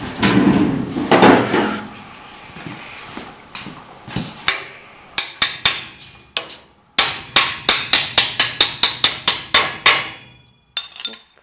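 Hammer blows: a few separate strikes, then a quick, even run of about a dozen loud blows, roughly four a second, stopping near the end.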